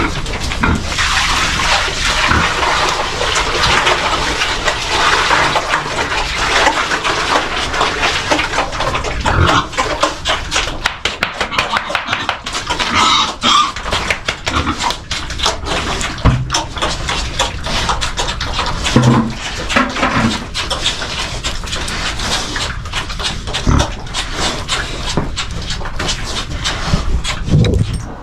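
Pigs grunting and squealing at their water tub while water runs from a hose, a steady rush for the first several seconds that gives way to scattered animal noises.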